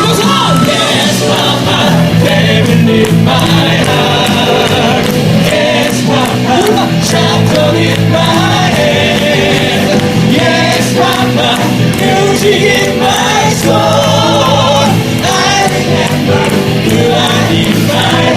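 Live song: several voices singing together in harmony over a steady instrumental accompaniment, with long held, wavering notes.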